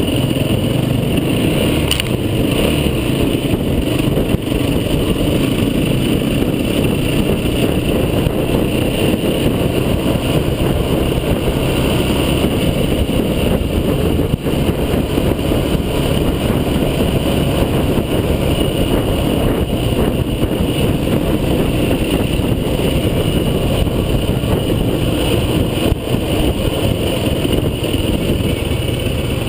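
Motor vehicle driving off-road, its engine and rolling noise steady and loud with no clear revving.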